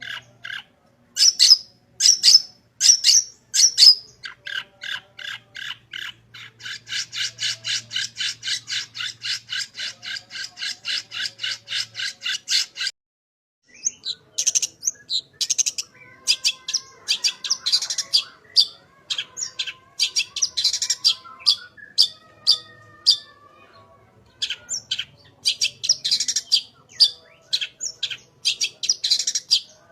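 Long-tailed shrike (cendet) singing in full voice: harsh, squawking notes delivered in fast even runs of about four a second, mixed with varied chirps and calls mimicked from other birds. There is a brief pause about midway.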